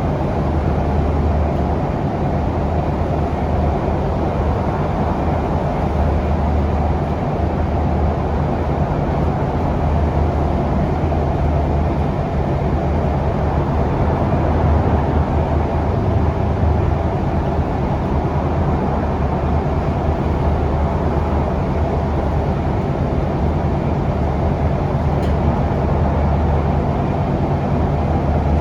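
Scania DC9 five-cylinder diesel of an articulated Scania K360UA city bus running steadily under way, with a low hum and road rumble, heard from inside the bus.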